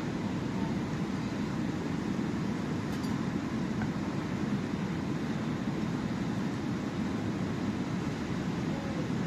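Steady low roar of sea waves, an even, unbroken rumble.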